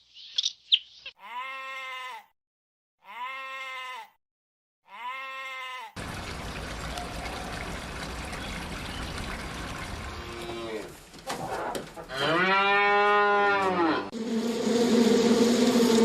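A farm animal bleating: three identical bleats in the first six seconds, then a stretch of steady background noise, and one more bleat a little before the end. Near the end a steady buzzing sets in.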